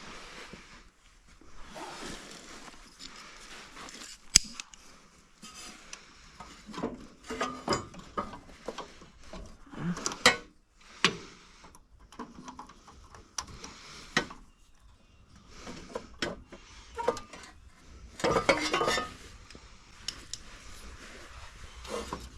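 Metal hand tools and snowblower parts clinking and knocking at irregular moments, with one sharp click about four seconds in and a longer clatter near the end.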